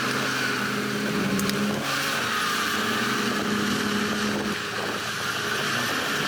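Heavy diesel engine of earthmoving machinery running steadily, its note shifting slightly up and down.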